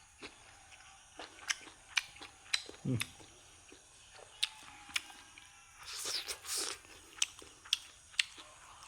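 Close-up eating sounds: chewing with a series of sharp, crunchy clicks from the mouth. A longer crunching or slurping burst comes about six seconds in.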